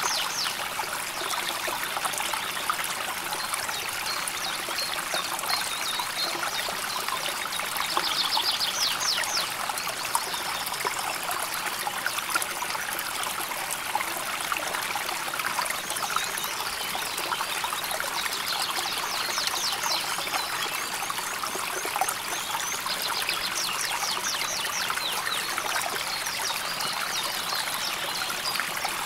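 River water flowing and trickling steadily, with a small bird giving short, high, rapid trills a few times.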